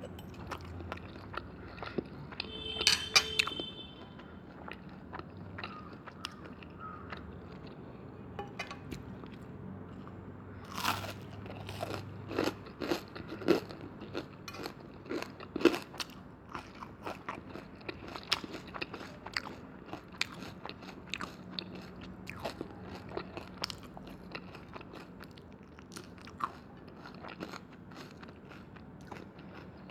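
Close-miked eating: crunchy bites and chewing, with louder crunches in a run about halfway through. A brief ringing clink comes about three seconds in.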